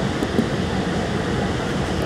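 Steady running rumble of a moving Long Island Rail Road C3 bi-level passenger coach, heard from inside the car, with one light click about half a second in.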